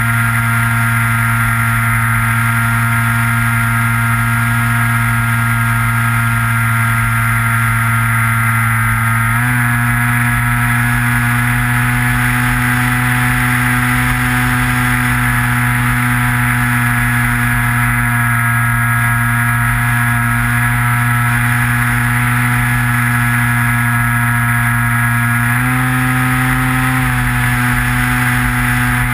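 The electric motor and propeller of a Skywalker FPV model airplane, heard from the on-board camera, run with a steady buzzing drone. The pitch steps up slightly with throttle about a third of the way in. It rises again briefly near the end before settling back. Wind buffeting rumbles underneath.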